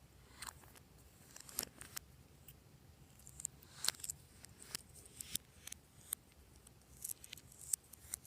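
Slime being worked by hand, giving off irregular small sticky pops and clicks, a dozen or so spread unevenly.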